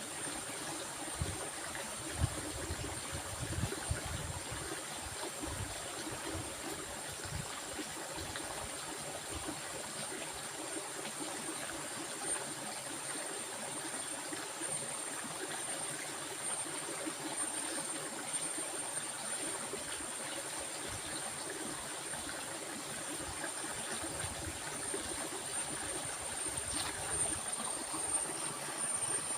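Flowing stream: a steady rush of water, with a thin steady high tone over it and low rumbles in the first several seconds.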